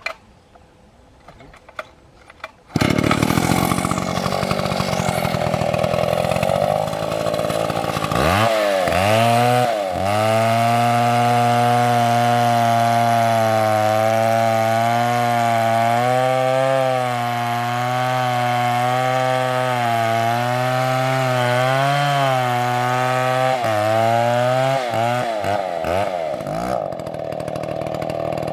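Large chainsaw (an MS720) starting up about three seconds in after a few quiet clicks, then running at high revs with its pitch wavering slightly as it works, before the pitch slides down near the end.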